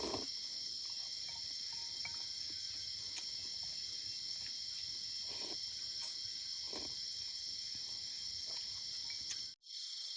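Steady insect chorus of crickets or cicadas chirring high-pitched, with a few short soft knocks or rustles; the sound cuts out for a moment near the end.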